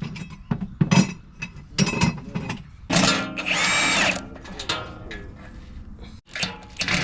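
Power drill running in short bursts, the longest about three seconds in with a whine rising and falling, amid clanks and clicks of tools on metal.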